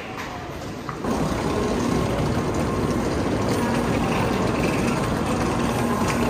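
Steady hum and rushing noise of a Shinkansen train standing at a station platform. It starts suddenly about a second in, after quieter station concourse noise.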